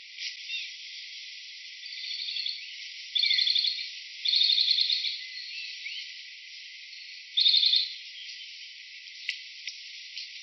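High-pitched, rapidly pulsed insect trills in four short bursts over a faint steady hiss, with a few sharp ticks near the end.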